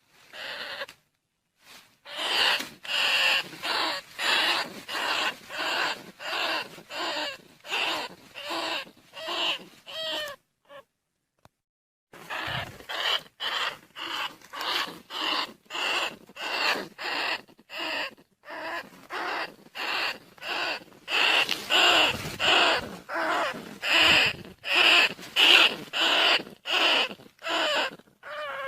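Rat squeaks repeated in a steady series, about one and a half a second, with a short break about ten seconds in. This is a decoy call recording played to lure rice-field rats and bandicoot rats.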